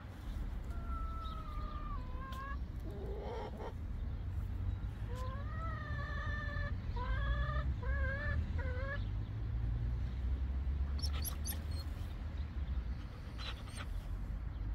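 Domestic hens clucking and calling: a drawn-out falling call, then a run of short, quickly repeated calls. A few sharp clicks in the second half over a steady low rumble.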